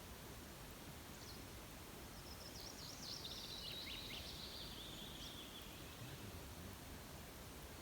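A small songbird sings one rapid, high-pitched phrase lasting about three seconds, starting about two seconds in and dropping slightly in pitch towards its end, over a steady faint hiss.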